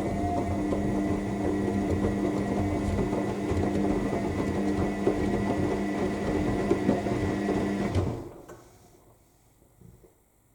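AEG 7000 Series L7FE7461BI washing machine's drum motor turning the drum in the main wash, a steady hum with a thin whine over the churning of the laundry. The drum stops about eight seconds in, the pause between tumbles.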